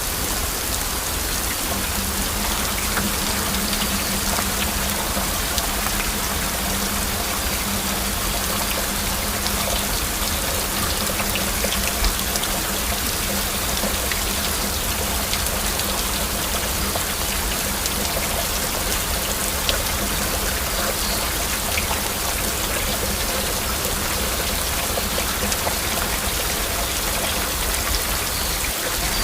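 Heavy rain falling steadily, a dense hiss of rain with many scattered individual drop ticks.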